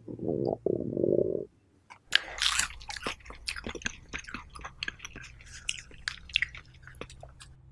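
Close-miked eating: a brief low buzzing sound, then from about two seconds in a run of crisp crunching bites and chewing.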